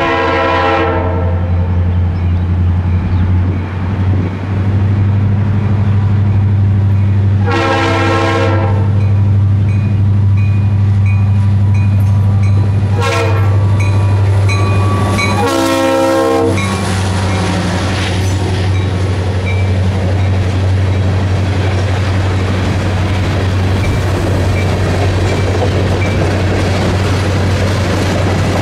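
Norfolk Southern diesel locomotive sounding its multi-chime air horn in the grade-crossing pattern, long, long, short, long, over the steady drone of its diesel engine. After the last blast the rumble of the train and its wheels on the rail joints builds as it passes.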